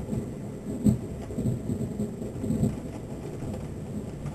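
Thunder rumbling from a thunderstorm, a low uneven rumble that swells and fades, over the steady hiss of pouring rain.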